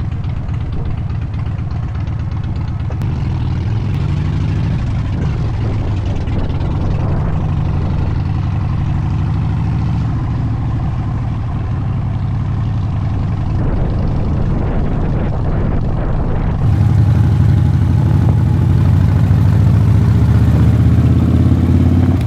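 Motorcycle engine running while riding, a steady low rumble that grows louder about two-thirds of the way through, then rises in pitch near the end as the bike accelerates.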